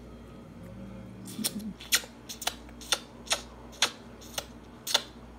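A toddler chewing broccoli with wet mouth clicks and lip smacks: about ten sharp, irregular clicks starting about a second in.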